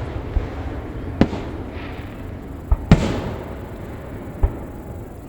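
Aerial fireworks bursting: four sharp booms, two of them close together a little under three seconds in, the second of that pair the loudest. Each boom is followed by a fading rumble.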